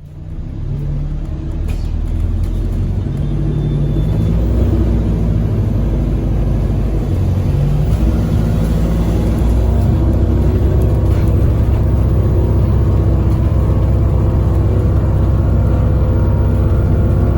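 Single-deck bus heard from inside the cabin, its engine running with a low steady drone and a faint whine that rises slowly in pitch as the bus gathers speed.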